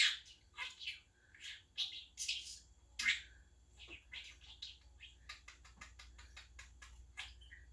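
English budgerigar chattering in quick, high, short chirps and warbles, with a fast run of clicking chirps about five seconds in.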